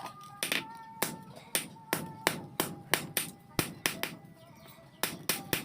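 Hammer blows on metal, about three a second with a short metallic ring, pausing briefly near the end before resuming; typical of forging or shaping steel from old bearings on an anvil.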